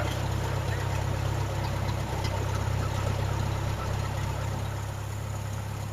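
Light airplane's engine running steadily at low taxi power, heard from inside the cabin.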